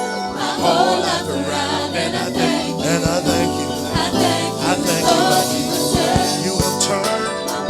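Gospel choir singing a worship song with band accompaniment, drums beating underneath.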